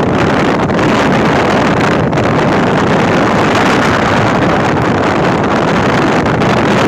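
Steady wind rushing over the microphone while riding a motorcycle, with the bike's running noise mixed in.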